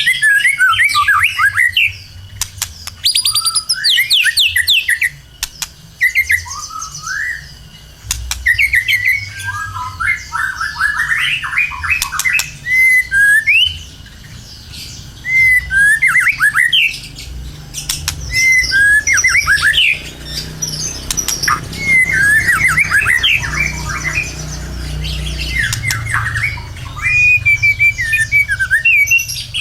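White-rumped shama singing in full song: loud, rapid phrases of sweeping whistles, quick trills and harsher notes, one burst after another with short pauses, over a low steady hum.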